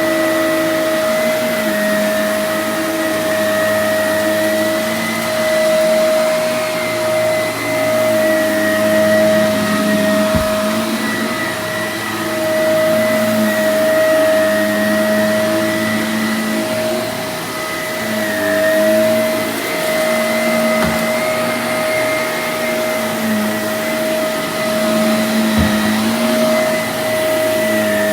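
Vacuum cleaner running steadily, its motor hum shifting a little in pitch as it works, with a few brief faint clicks.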